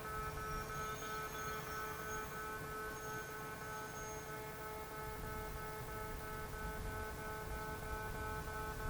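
Steady electrical hum made of several held tones, one of them pulsing on and off evenly, over a low rumble.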